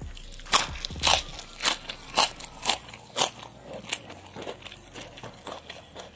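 A person chewing crunchy food close to the microphone: crisp, crackling crunches about twice a second, easing into softer, irregular chewing sounds over the last few seconds.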